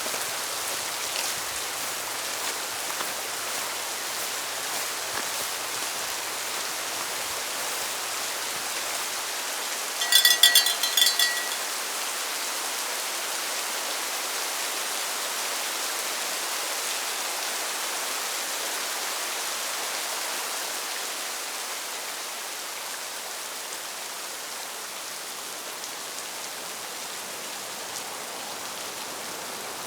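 Steady rain. About ten seconds in, a short pitched sound, much louder than the rain, cuts through for a second or so in a few quick pulses.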